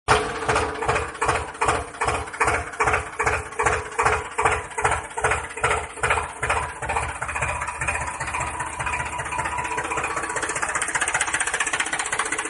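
Small engine running with slow, regular thumps, about three a second, that quicken and blend into a steady run after about seven seconds.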